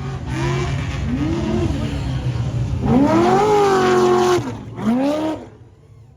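Off-road prerunner race truck's engine revving hard in a series of throttle blips, the pitch swinging up and down, with one longer held rev in the middle, then dropping away near the end.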